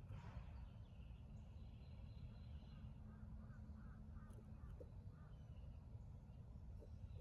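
Faint bird calls, a short run of notes about three seconds in, over a steady low rumble.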